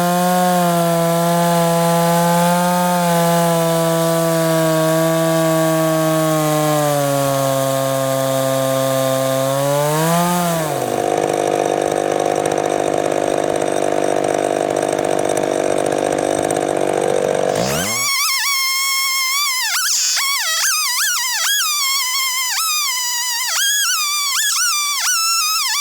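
Two-stroke chainsaw running steadily under load through a chainsaw-mill cut in maple, its pitch rising and then dropping off about ten seconds in. A rushing noise follows. After a sudden change about eighteen seconds in, only high warbling calls that fall in pitch remain.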